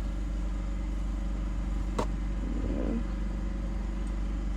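Steady low engine hum, with one sharp click about two seconds in.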